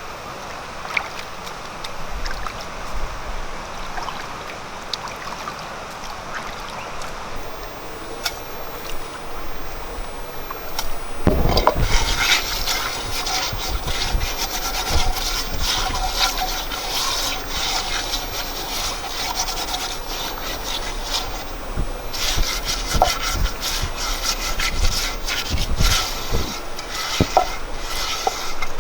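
Rough scraping and rubbing with many small clicks, louder and denser from about eleven seconds in.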